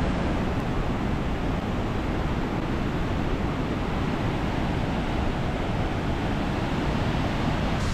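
Steady, loud rushing of a waterfall on the River Ure, with the river running high.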